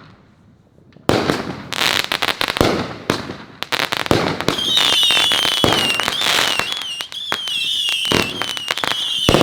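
Consumer fireworks going off in rapid succession: after about a second of quiet, a sudden burst of dense crackling and sharp bangs. From about four and a half seconds in, a wavering high whistle rises over the crackling and keeps going.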